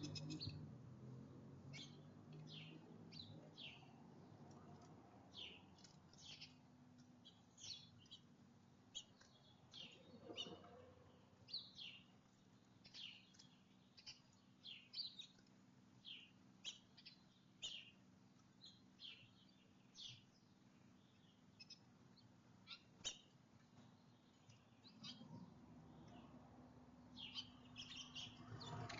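Small songbirds chirping faintly: a long run of short, high chirps, about two a second.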